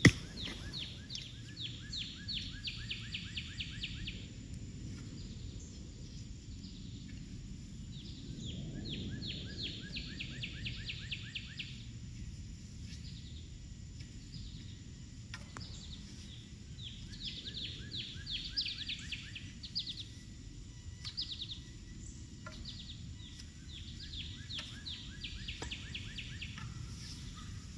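A small songbird singing a rapid trill of short repeated notes, each run lasting about three to four seconds and repeated several times, over a steady low outdoor rumble.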